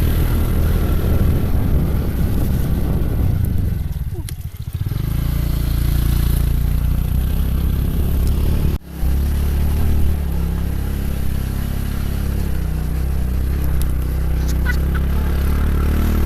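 Motorcycle engine running steadily under way, its low drone easing off briefly about four seconds in and cutting out for an instant near the middle.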